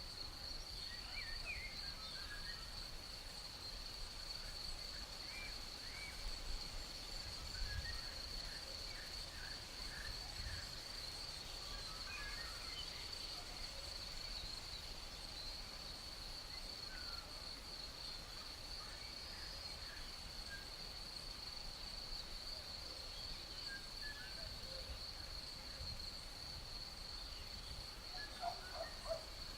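Insects, crickets or similar, keeping up a continuous high-pitched buzzing trill at one steady pitch, with scattered faint short bird chirps and a few soft low thuds.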